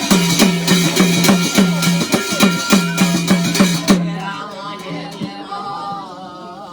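Folk drum beaten quickly, about three strokes a second, each low stroke dropping in pitch, with sharp accompanying hits. The drumming stops about four seconds in, and softer music with singing follows.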